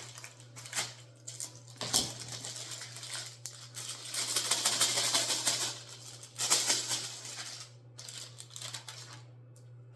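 Pie dough and a pie press being worked by hand on a counter: a run of irregular taps and clicks, with two longer stretches of rustling about four and six and a half seconds in.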